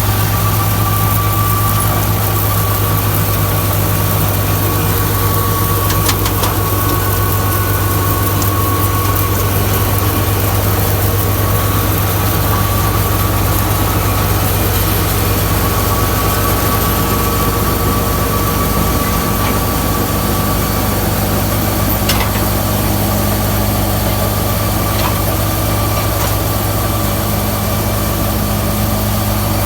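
Tractor diesel engine running steadily at an even speed, with a few faint clicks.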